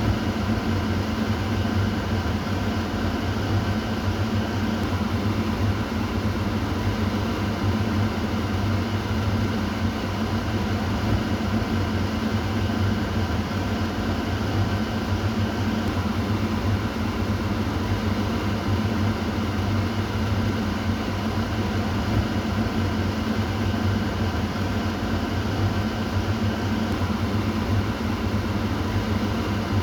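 Kitchen exhaust fan running steadily: an even whirring rush with a constant low hum.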